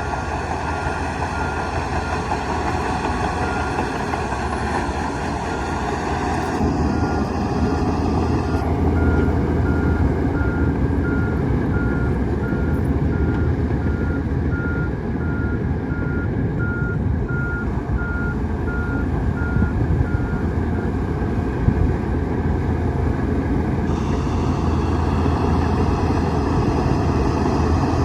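Heavy diesel machinery running steadily, with a reversing alarm beeping at an even pace over it that stops about 20 seconds in.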